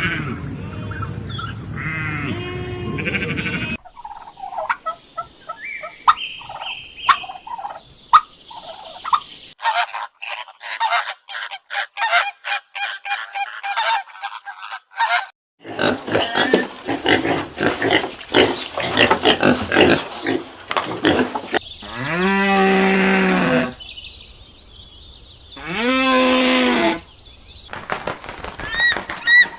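A run of different animal and bird calls, one short clip after another, with fowl calling. Two long calls falling in pitch stand out in the last third.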